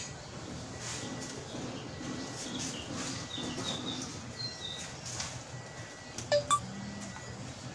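Faint short chirps of small birds over a low steady hum, then two sharp clinks about six seconds in.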